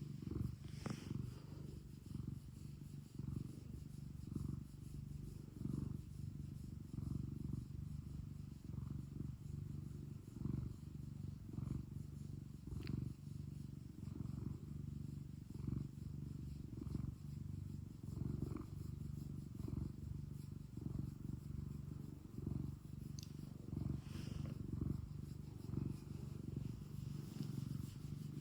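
Domestic cat purring steadily, a low rumble that swells and fades in an even rhythm about once a second as it breathes in and out.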